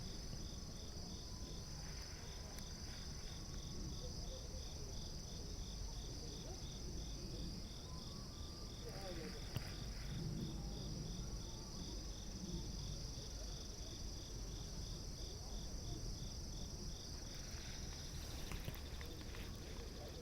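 Insects chirping: a steady high trill together with a regular pulsing chirp, about four a second.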